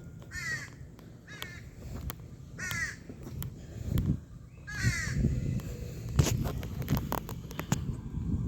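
A crow cawing four times, harsh calls spread over the first five seconds, the last one longer. Low knocks and rumble of walking and phone handling follow in the second half.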